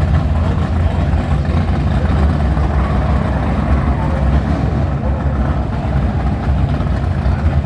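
Several drag-race cars' engines idling together in the staging lanes, a steady low rumble.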